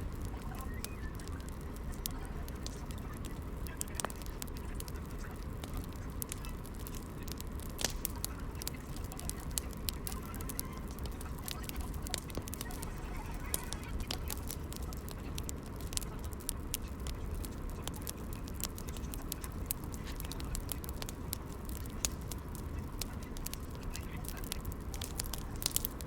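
Wood fire burning, with many irregular sharp crackles and pops over a steady low rumble.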